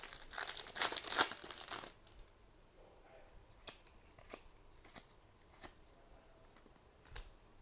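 Foil trading-card prize-pack wrappers crinkling and tearing for about two seconds, then a few scattered soft clicks as the packs and cards are handled.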